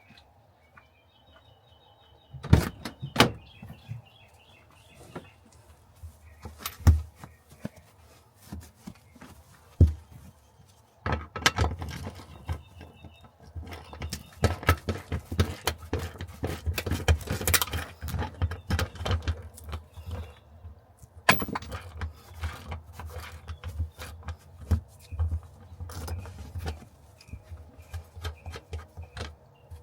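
Irregular clicks, knocks and metallic clinks of tools and parts being handled during hands-on car repair work, thickest in a stretch of busy clatter from about 11 to 20 seconds in.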